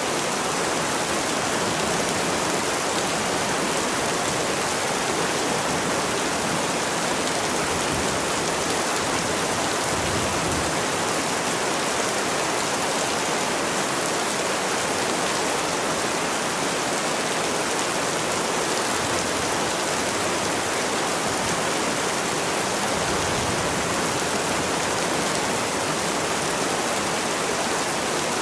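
Steady rain falling, an even hiss of many drops with no breaks or single distinct impacts.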